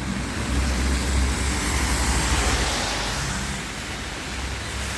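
Car moving along a rain-soaked road: a steady low engine hum under a continuous hiss of heavy rain and tyre spray, a little louder in the first half, then easing.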